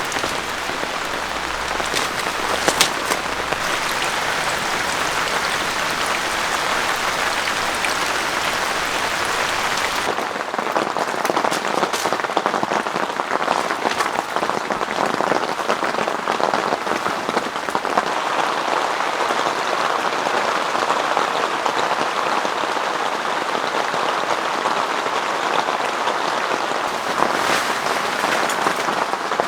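Heavy rain falling steadily, a dense even patter with scattered sharper drop hits. The low rumble underneath falls away about a third of the way through.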